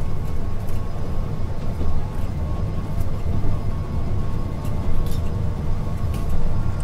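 Steady low rumble of a moving passenger train heard from inside a sleeper compartment, with a few light, high clicks scattered through it.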